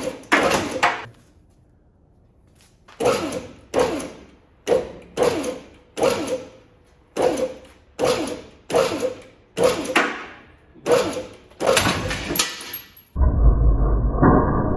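Repeated heavy blows on metal, a dozen or so at an uneven pace, each ringing briefly. Near the end they stop and a steady low rumble takes over.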